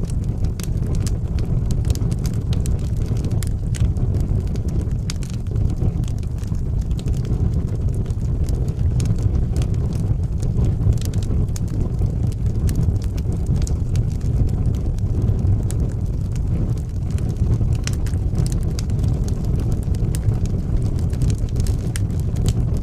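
Wood fire burning in a fireplace: a steady low rush of flames with frequent small crackles and pops of burning wood.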